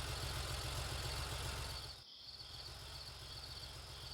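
Night ambience of crickets chirping steadily over a low vehicle engine rumble, with a brief drop about two seconds in.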